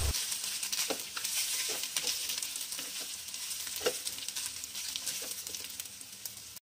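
Rice and fried garlic sizzling in oil in a stainless steel wok as they are stirred with a plastic spatula, with a few scrapes and taps of the spatula against the pan. The sound cuts off suddenly near the end.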